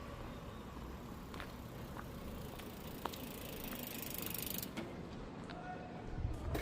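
Fast mechanical ratcheting tick that builds for a couple of seconds and stops abruptly just under five seconds in, with a few sharp clicks before it.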